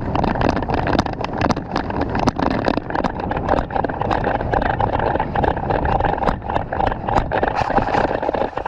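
A player on the move: hurried footsteps and rattling gear, with rumbling movement noise on the microphone and irregular knocks throughout.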